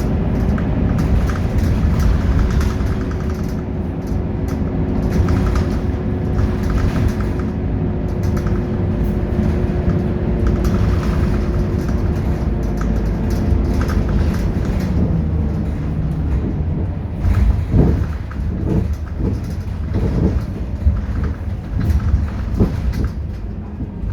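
Scania K230UB city bus's diesel engine running steadily under way, its tone dropping about halfway through as it eases off. In the second half there are irregular knocks and rattles.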